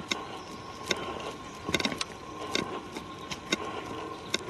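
Footsteps on a forest trail: irregular crunches and snaps of leaves and twigs underfoot at walking pace, roughly one or two a second.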